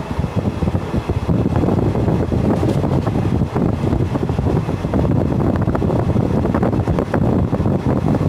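Indian Railways express train running at speed: a steady loud rumble of wheels on the track with dense, rapid clattering.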